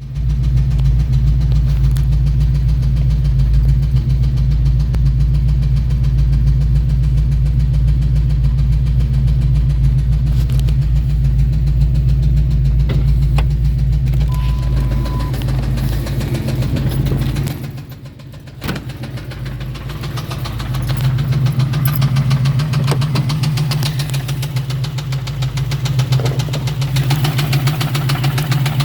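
1999 Ford Mustang GT's 4.6-litre two-valve V8 running, with a fine repetitive ticking all through, the weird noise the owner fears is a rod knock. The engine sound dips for a couple of seconds about two-thirds of the way through, then comes back.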